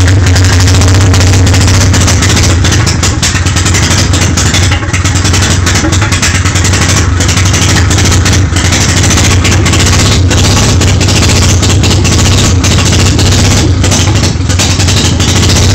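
Street-ported Mazda 12A rotary engine, fed by 48 IDA carburettors, running loud and uneven just after a hard start, with frequent irregular sharp cracks in its exhaust note.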